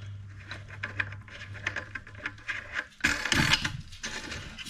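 Plastic nut being spun onto the threaded bottom of a toilet tank valve by hand: a run of light, rapid plastic clicks and rattles, with a louder handling clatter about three seconds in.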